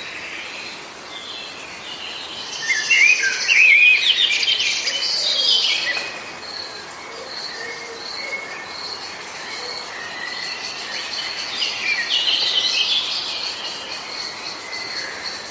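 Birds chirping and twittering in quick, busy phrases, loudest a few seconds in and again near the end. A steady high-pitched trill runs underneath.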